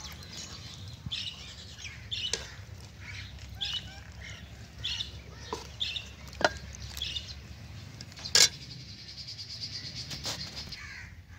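Birds chirping over and over, with a few sharp clinks of a metal ladle against a metal cooking pot, the loudest clink a little past two-thirds of the way through.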